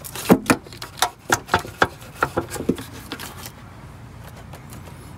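Stuck plastic engine cover on a Ford 4.6L V8 being pried loose: a quick run of about ten sharp clicks and cracks over three seconds, then they stop.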